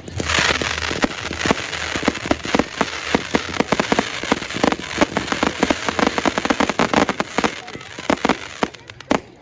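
Fireworks going off in a dense, rapid crackle of many small pops and bangs over a hiss. It starts suddenly and thins out near the end.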